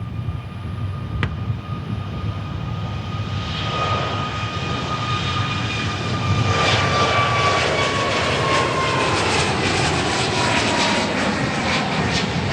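COMAC C919 airliner's CFM LEAP-1C turbofans flying past. The engine roar grows louder for the first half, and a high fan whine falls slowly in pitch as the aircraft goes by. After that the roar holds steady with a ragged crackle.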